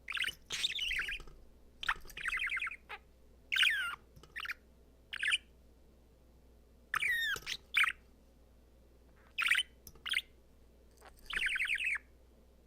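A budgerigar chirping and warbling in short bursts of about half a second, some fast trilling, some sweeping up and down in pitch, with short pauses between them: the cheerful chatter of a contented budgie.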